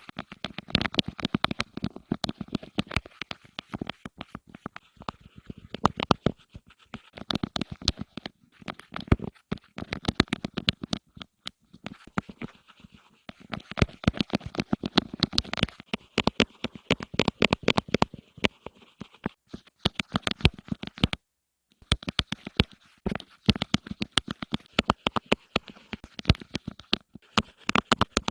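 Rapid ASMR tapping and scratching close to the microphone, in quick flurries of sharp taps with short pauses between them, and one brief dead-silent break about 21 seconds in.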